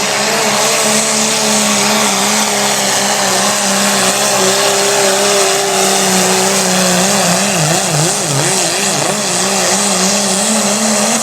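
Diesel pickup truck engine at full throttle pulling the sled, held at high revs with a steady pitch. About seven seconds in, the pitch wobbles up and down as the revs surge, and the engine cuts off sharply at the end of the pull.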